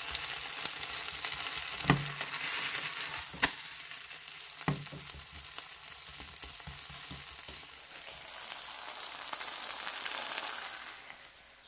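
Green onion and sweet potato pancake sizzling in oil in a frying pan, with a wooden spatula knocking sharply against the pan three times in the first five seconds. The sizzle fades away near the end as the pancake is slid off the pan onto a plate.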